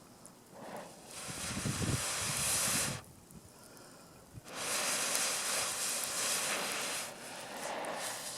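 Air blown twice onto a wood campfire, each blow a long hissing rush of about two seconds with a short pause between.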